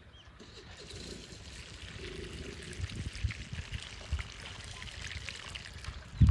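Water pouring and trickling in a steady stream, coming in about half a second in and running on with light crackles.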